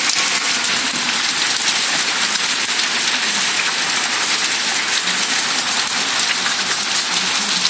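Heavy rain pouring steadily onto wet tarmac, puddles and a parked car: a dense, even hiss of countless drops.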